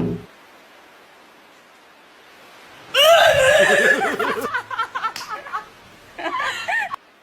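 A voice making high-pitched, laughter-like sounds in a loud run about three seconds in, then a shorter burst near the end.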